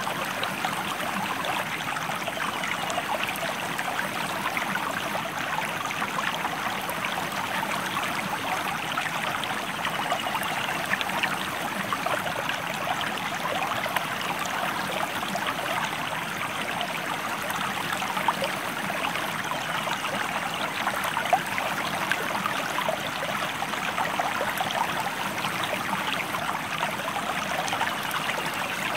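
A stream running over rocks, a steady dense rush with many small splashes and trickles.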